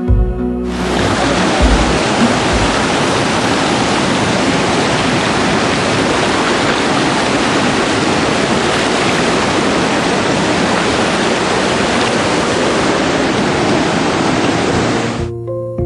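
Waterfall: a loud, even rush of falling water that starts abruptly just under a second in and cuts off suddenly just before the end, with background music on either side.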